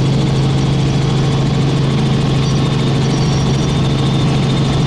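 Helicopter in flight: a steady, loud drone of engine and rotor with a strong low hum that holds constant throughout.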